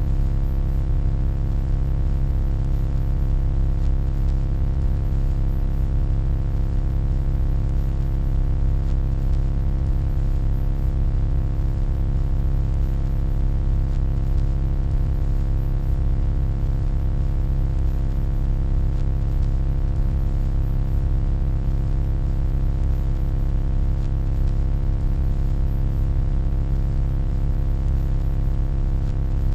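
Steady, unbroken electronic hum, deep and low with many steady overtones above it.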